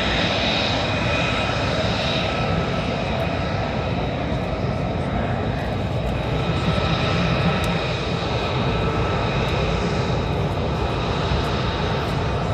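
Aircraft engine noise, a loud, steady drone with a few faint steady tones over it.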